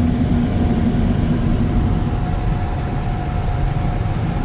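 Steady low road rumble heard inside a car driving on wet, rainy roads, with a thin steady whine over it. A lower hum fades out about two seconds in.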